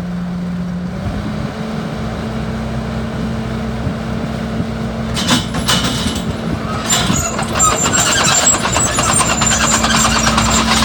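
Diesel engine of a Bobcat T750 tracked skid steer running steadily, its pitch stepping up slightly about a second in. From about five seconds in, dense crackling and clattering rides over the engine, as of the mulching head chewing through material.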